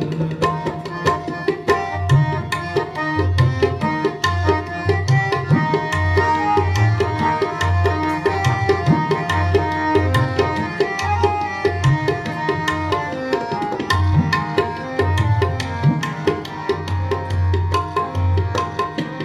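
Instrumental interlude of Sikh kirtan: tabla playing a fast, steady rhythm with deep bass strokes, under a held-note melody from a harmonium, between sung verses of a shabad.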